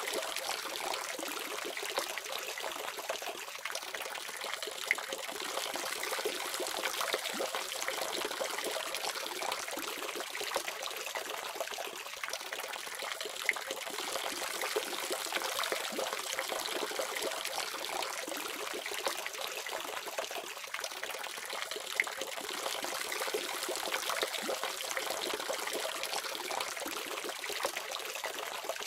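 Water faucet running steadily, a continuous splashing stream of tap water.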